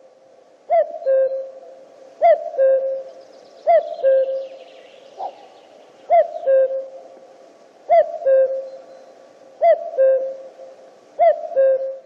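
Male common cuckoo (Cuculus canorus) giving its two-note "cu-coo" call, the second note lower than the first, repeated seven times about every one and a half seconds with one longer pause in the middle.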